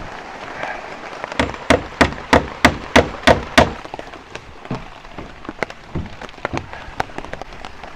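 Hammer blows, about eight quick even strikes in a row, over steady rain pattering on tarps, followed by scattered lighter taps and drips.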